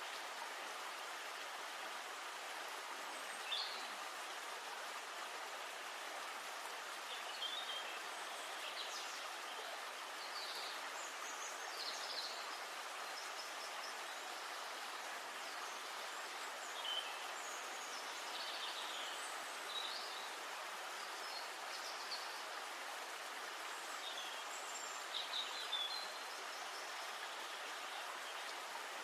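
Steady rush of flowing river water, with short high bird chirps scattered through it.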